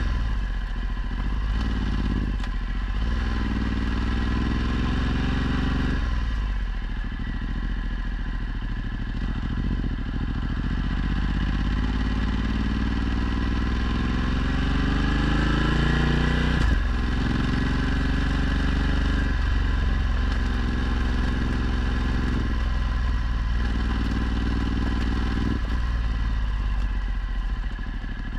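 Ducati Multistrada 1260's 1262 cc V-twin through a Termignoni exhaust, under way and accelerating: its pitch climbs over several seconds and drops back several times as the rider works up through the gears.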